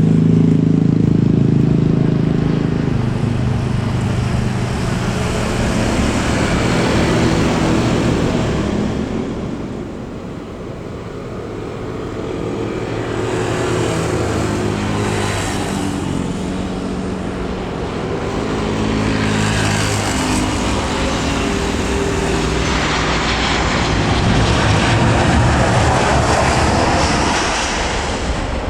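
Airliner engines running as an aircraft passes close by the airport, a loud steady rumble with engine tones. It dips about ten seconds in and builds again toward the end.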